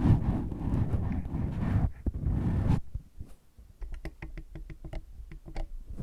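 Scratching and rubbing on a microphone windscreen, a dense low rustle close to the mic. After a short pause about halfway in, it turns to quick light taps, about seven a second for two seconds.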